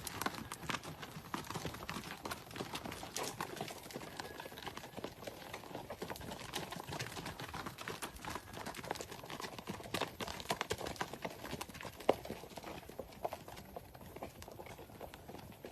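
Horse hooves clip-clopping: a continuous run of irregular knocks, with one sharper knock about twelve seconds in.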